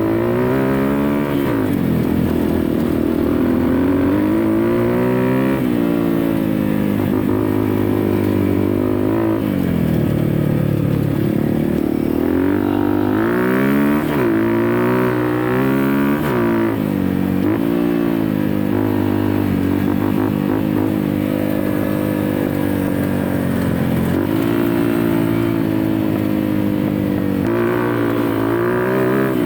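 Off-road dirt bike engine running hard, its pitch climbing and dropping again and again as the throttle is opened and closed.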